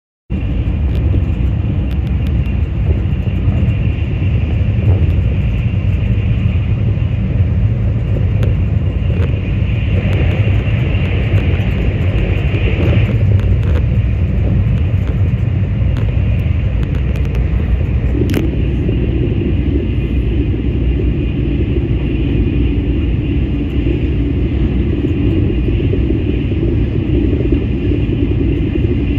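Steady low rumble of a Tokaido Shinkansen train running at speed, heard from inside the passenger cabin, with a fainter hiss above it. A single sharp click comes about 18 seconds in, and after it the rumble grows fuller in its middle range.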